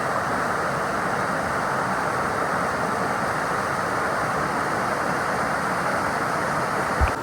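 Steady rush of creek water pouring over rock cascades into a pool, with a brief low thump near the end.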